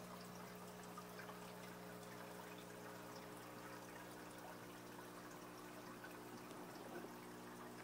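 Circulating water in an aquaponic fish-tank and grow-bed system trickling and pouring steadily and faintly, over a steady low electrical hum.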